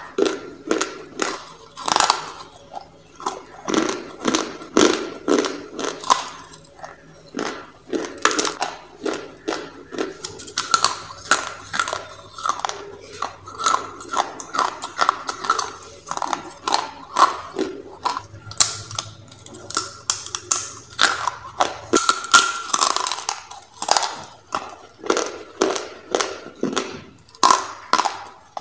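Close-up crunching as dry clay rolls are bitten and chewed: a steady run of sharp crunches, about one or two a second.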